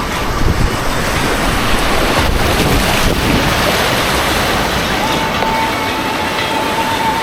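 Loud rushing white water churning around a kayak on an artificial white-water course, with wind buffeting the action camera's microphone. A thin steady tone joins about five seconds in.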